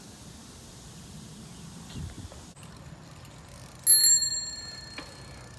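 Bicycle bell rung once, about four seconds in: a bright ring that fades away over about a second.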